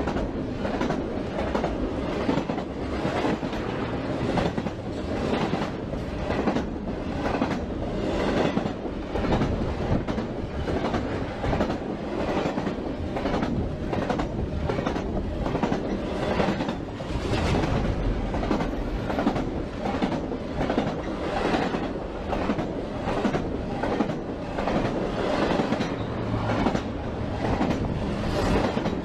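Freight train rolling past, its wheels clicking over rail joints in a steady, repeating rhythm over a continuous rumble.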